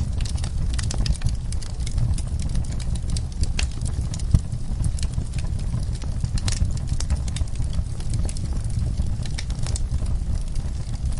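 Fireplace wood fire crackling, with irregular sharp pops and snaps, one louder pop about four seconds in, over a steady low rumble.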